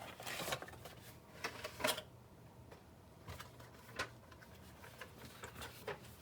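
Gift-set packaging being handled and opened: light rustling over the first two seconds, then a few faint, separate clicks and taps.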